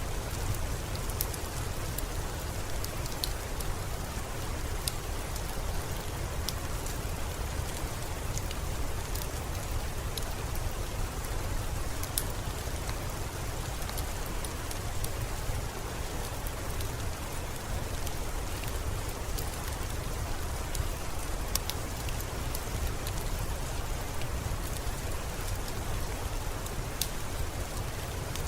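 Steady rain falling, an even hiss with a low rumble underneath and scattered sharp high ticks.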